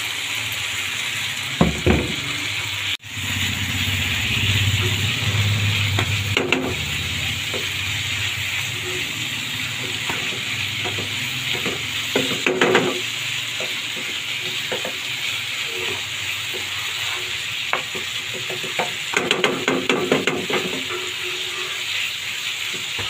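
Chopped potatoes, carrots and shredded cabbage sizzling in oil in a frying pan, with a steady hiss throughout. A spatula stirs and scrapes through the vegetables in the pan, adding scattered short scrapes and knocks.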